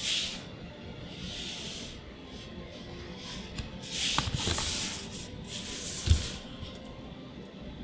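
Trading cards and booster-pack wrapping being handled: a series of soft sliding, rubbing swishes as cards and foil are moved, with a dull knock a little after six seconds in.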